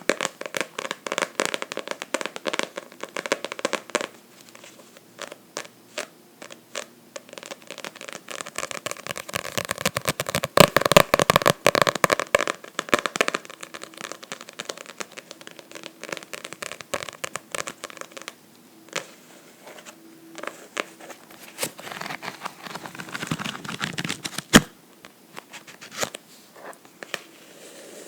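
Tapping and scratching on a book, close up. Quick taps at first, a dense stretch of scratching around the middle, then scattered taps with one louder knock near the end.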